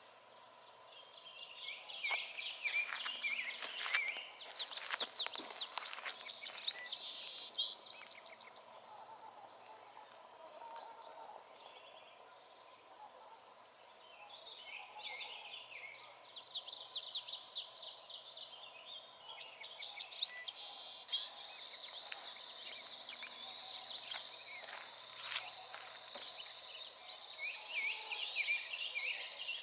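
Several songbirds singing at once, an overlapping chorus of quick chirps and rapid trills.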